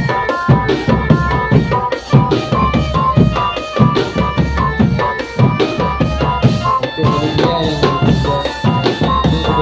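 Marching drum band playing: bass and snare drums keep a steady beat under a melody of short pitched notes.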